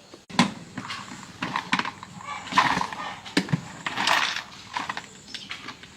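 A run of irregular knocks and clatters, with louder scraping rushes a little before the middle and again about two-thirds of the way through.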